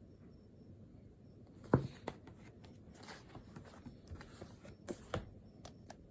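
Handling noises: a sharp knock about a second and a half in, then scattered small clicks and rustles, with two more knocks near the end.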